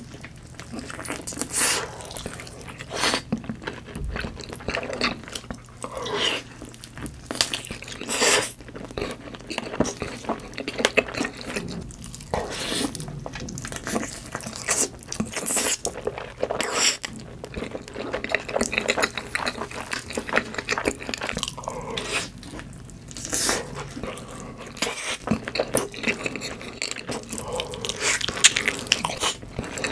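Biting and chewing of red-sauced roast chicken: irregular mouth sounds, with a few louder bites standing out.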